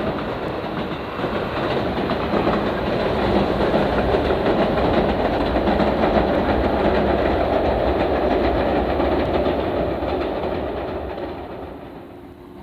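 An electric train running past on the JR Nara Line, loud, then dying away over the last couple of seconds.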